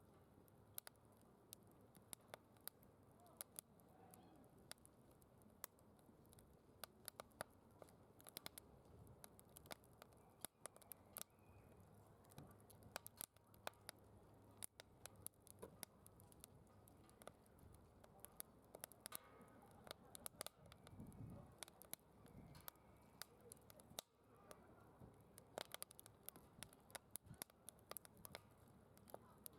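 Faint wood fire crackling in a secondary-combustion fire pit, with frequent small sharp snaps scattered irregularly throughout. Faint voices come in briefly around twenty seconds in.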